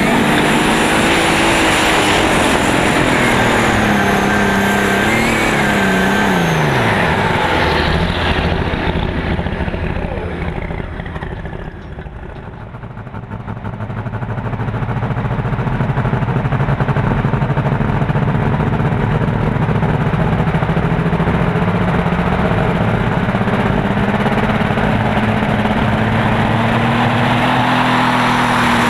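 Super stock pulling tractor engine running hard at high revs with a high whine over it. About seven seconds in the revs fall away and the sound eases off, then it builds again and holds a steady high-revving note.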